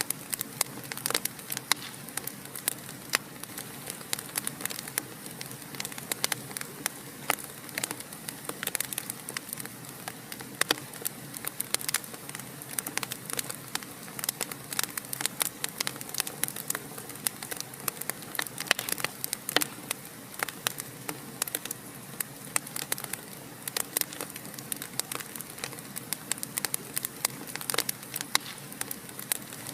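Fire crackling in a fireplace: a steady hiss with many sharp pops and snaps, several a second.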